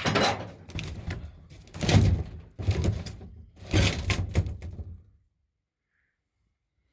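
Three heavy thumps about two seconds apart, each trailing off in rattling and knocking, with the boxy ring of a van's interior; the sound cuts off suddenly after about five seconds.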